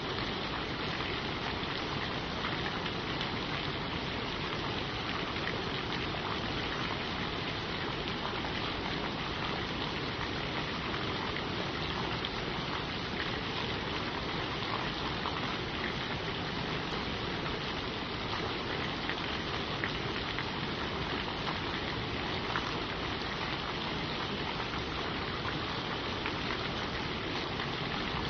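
Steady rain falling on forest leaves: an even wash with many individual drops ticking through it, with no thunder.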